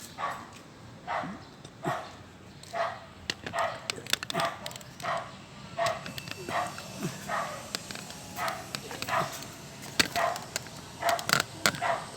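A dog barking in short, repeated barks, about one or two a second, with a few sharp knocks about ten seconds in.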